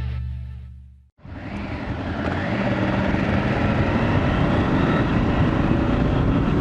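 Music fading out in the first second, then a motorcycle under way: the engine running and a steady rush of riding noise that holds to the end.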